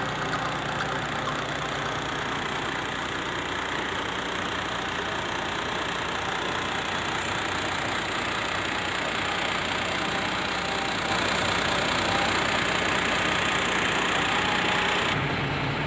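Diesel engine of a UD Trucks CWE 280 truck idling steadily, a little louder from about eleven seconds in.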